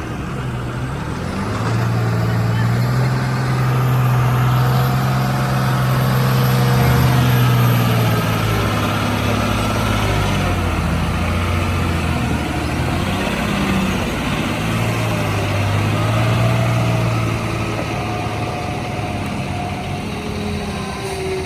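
Tata 3718 LPT heavy truck's BS-III diesel engine running steadily under a heavy load. Its note drops in pitch about halfway through and rises again a few seconds later.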